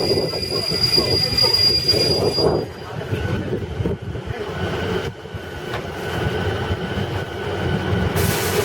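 Running noise of a 12-series passenger coach on the rails, heard from aboard, a dense steady rumble. A high, steady wheel squeal cuts off about two and a half seconds in, and fainter, lower whining tones follow.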